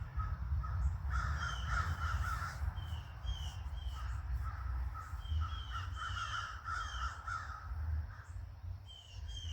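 A group of crows cawing over and over, many calls overlapping in a noisy ruckus, over a steady low rumble.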